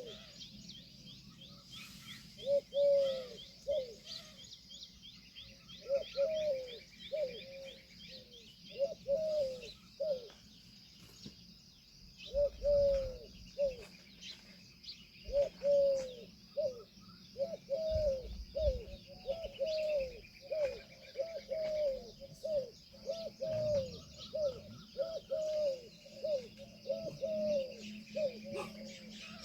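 A bird giving short, low, arched notes in groups of two to four, repeated over and over, with small birds chirping faintly and high behind it.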